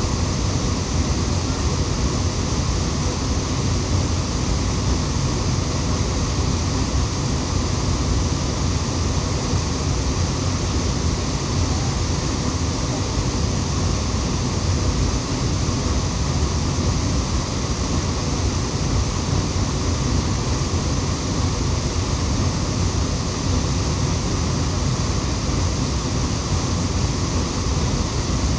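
A waterfall: a steady, unbroken rush of falling water that does not change.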